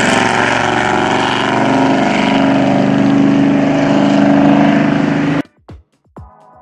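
Car engine running steadily as cars drive along a race circuit, recorded on a camcorder's own microphone with a noisy hiss. About five and a half seconds in it cuts off suddenly and electronic music with sharp beats begins.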